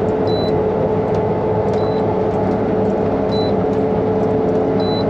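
Combine harvester running hard inside the cab, a steady machine drone with a constant whine, while a short high-pitched warning beep sounds four times, about every one and a half seconds. The cab alarm gives no message saying what it is warning about.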